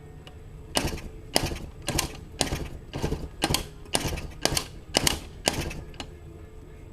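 1983 Yamaha YZ250 two-stroke engine putting through a makeshift exhaust, about eleven loud, even pops roughly twice a second that stop about six seconds in. It fires only a few strokes without catching or picking up, the no-start problem the owner is chasing.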